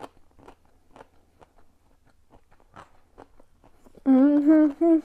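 Close-miked chewing: soft, short crunches and mouth clicks as a mouthful of food is eaten. About four seconds in, a woman hums a few held notes with her mouth full, the loudest sound.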